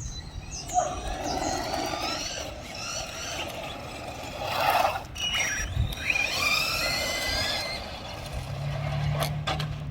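Electric motors of hobby-grade RC cars whining, rising and falling in pitch as the cars speed up and slow down, over a steady rushing noise.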